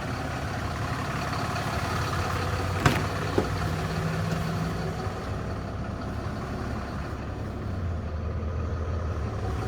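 Ram 4500 heavy-duty pickup engine idling steadily with a low hum. A sharp click sounds about three seconds in, with a smaller one just after.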